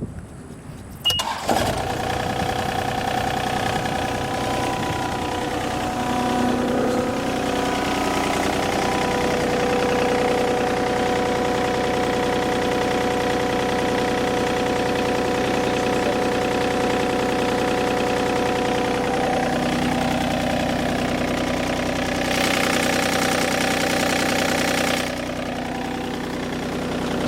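Yanmar 3TNE84 three-cylinder diesel of a John Deere 3235B fairway mower starting about a second in, then running steadily. A hiss joins in for a few seconds near the end.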